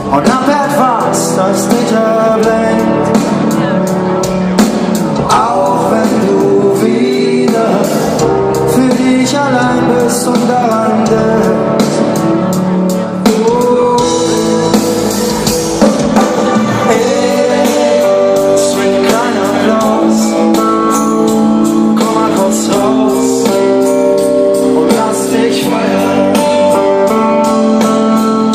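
Live pop band playing loudly: guitar and drums, with singing at times.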